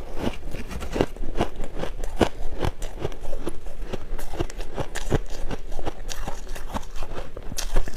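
Shaved ice being bitten and chewed, a quick, irregular run of crunches, several a second.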